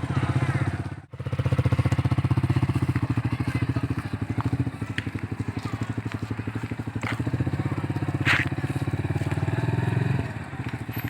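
Rusi Sigma 250 motorcycle engine idling with a steady, even pulse. The sound drops out suddenly for a moment about a second in, and a few short clicks sound over it.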